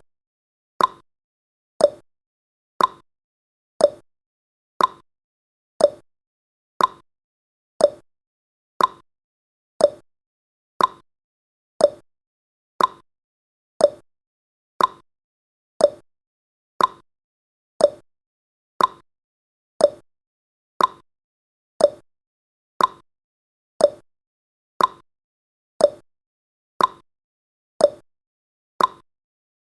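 Countdown timer's clock-tick sound effect: one short, sharp tick every second, evenly spaced, with quiet between ticks.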